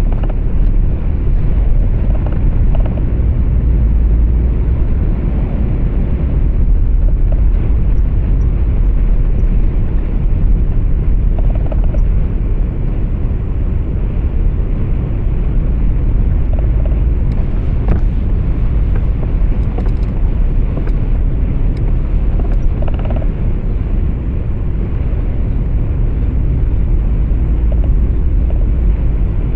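Steady low rumble of road and engine noise heard from inside a truck cab, with a few faint clicks in the second half.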